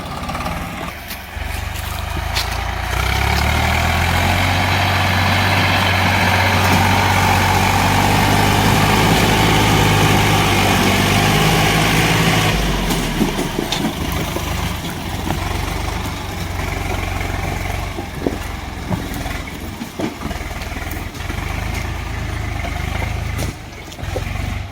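Tractor engine revving up about two seconds in and held at high revs for around ten seconds, then dropping back to a lower, rougher running with scattered knocks and clunks.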